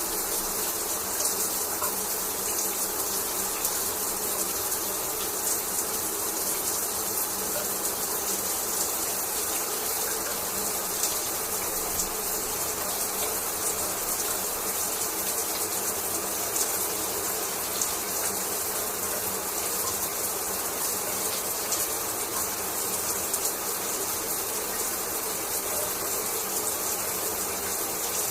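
Shower water running steadily, spray falling in an even hiss with small irregular splashes.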